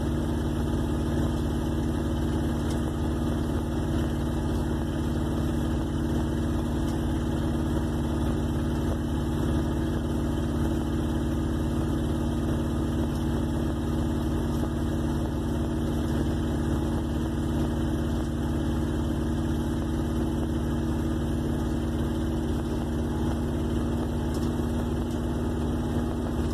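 1958 Plymouth Suburban's engine running steadily at a constant cruise, heard from inside the car, with no proper exhaust fitted yet.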